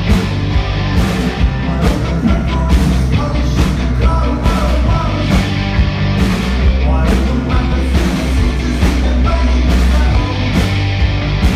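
Live rock band playing loud, with heavy bass and a steady drum beat.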